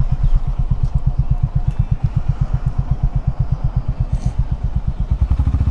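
Honda H'ness CB350 single-cylinder engine running steadily while riding, its exhaust beat an even train of low pulses.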